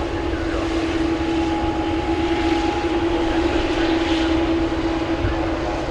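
Airliner engines running, a constant whine at an unchanging pitch over a broad rumble.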